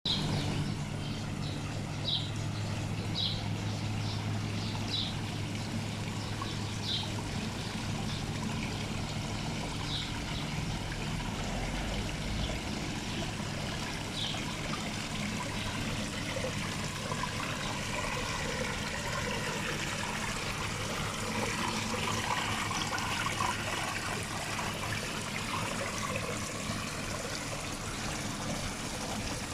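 Water trickling steadily in a landscaped garden stream, with a few short high chirps in the first half.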